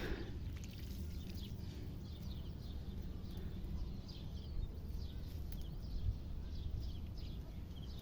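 Faint, quick high chirps from a small animal, repeating a few times a second, over a steady low background hum.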